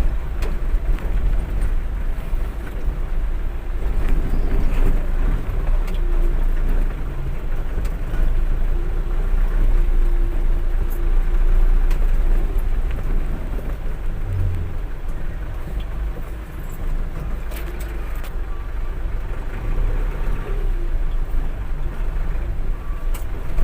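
Steady low rumble of a truck's engine running.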